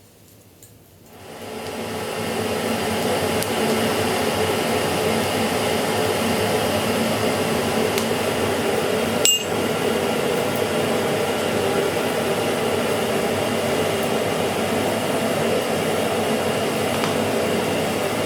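A blacksmith's forge blower starting up about a second in, then running steadily, with one sharp metallic clink about halfway through.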